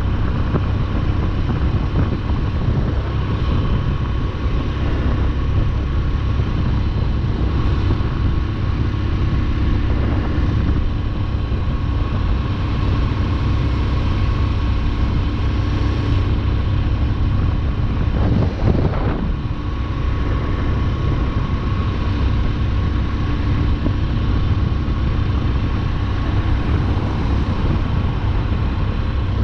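Motorcycle on the move at steady road speed, its engine and road noise a continuous low rumble, with a brief louder moment about nineteen seconds in.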